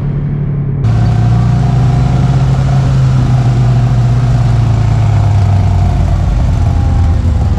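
Side-by-side UTV engine running steadily, cutting in loudly about a second in and holding a nearly level note.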